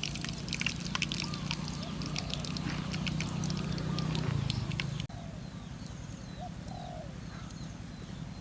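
Dense irregular crackling and clicking over a low steady hum for about five seconds. Then an abrupt cut to birds calling outdoors in short, repeated, rising-and-falling calls.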